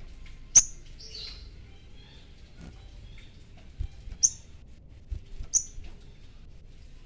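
A sogon bird in breeding condition calling: three short, sharp, high chips, about half a second, four seconds and five and a half seconds in, the first the loudest and followed by a brief raspy chatter. A few soft low thumps fall between the calls.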